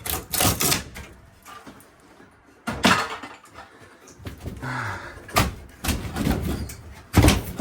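Demolition bangs and clanks as old furnace equipment is torn out: about five sharp impacts spread across the few seconds, the last near the end the loudest, with rattling between them.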